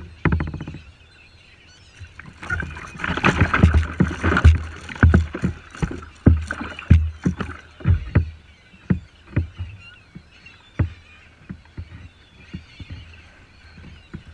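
Sharp knocks and clatter on a kayak's hull, with a burst of splashing water about two seconds in. The knocks then carry on at uneven intervals.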